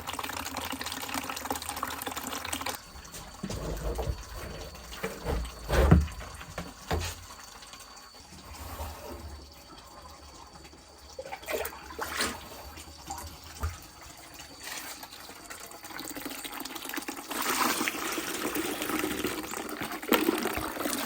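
Water running and splashing into a container, with scattered knocks and a loud thump about six seconds in.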